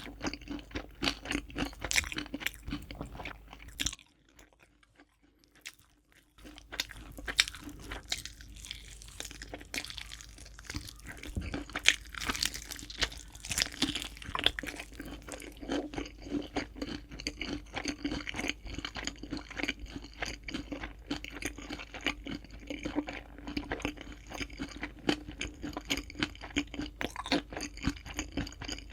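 Someone chewing crispy fried chicken: a dense run of crunches, with a pause of about two seconds about four seconds in.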